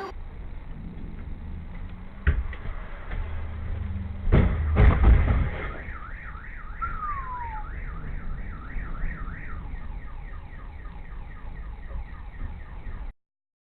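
Low rumble of road and engine noise, a sharp knock about two seconds in, then a loud burst of bangs and rumble around four to five seconds in, typical of a collision. Then a car alarm warbles, its pitch sweeping up and down about twice a second, until the sound cuts off near the end.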